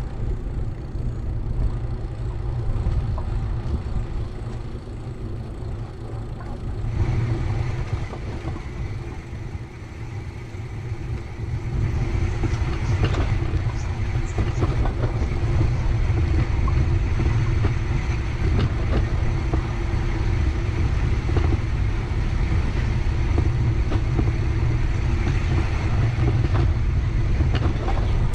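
Wind rumbling on the microphone of a camera riding on a moving bicycle, with road noise; it gets louder about twelve seconds in.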